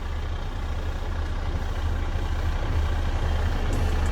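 Western Star dump truck's diesel engine idling, a steady low rumble.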